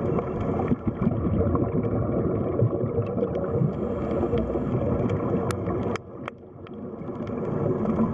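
Underwater sea ambience: a continuous low rumbling wash of water with scattered sharp clicks. It drops away about six seconds in, then swells back up.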